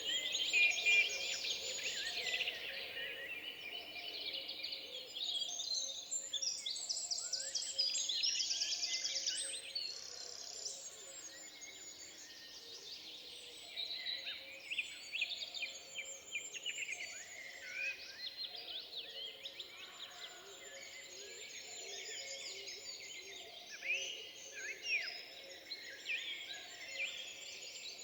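Several songbirds singing at once in a forest: overlapping chirps, whistles and fast trills, busiest in the first ten seconds.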